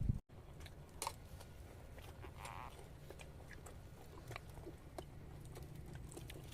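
Faint eating sounds: scattered small clicks and chewing of people at a meal.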